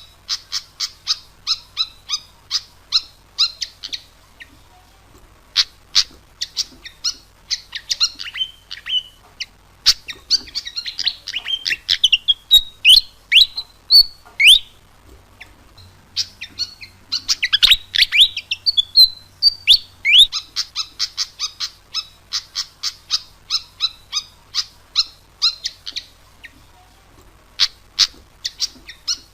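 Malaysian pied fantail singing: runs of quick, sharp chirps, about three a second, broken by squeaky phrases of whistled notes that sweep up and down.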